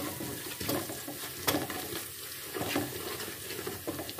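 Crushed garlic, ginger and green chilli with cumin, fennel and nigella seeds sizzling in hot oil in a pan, with a wooden spatula scraping the pan several times as they are stirred.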